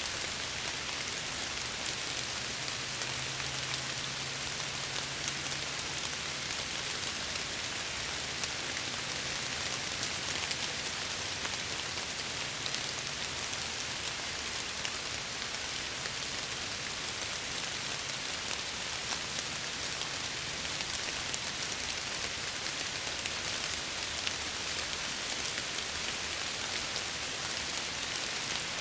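Steady rain against window glass: an even hiss of rainfall with fine individual drop ticks. A faint low hum comes and goes in the first ten seconds or so.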